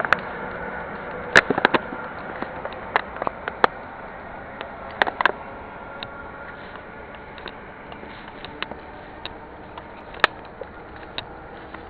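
Campfire burning: wood crackling with irregular sharp pops over a steady hiss, the loudest pops in the first couple of seconds and again about five seconds in.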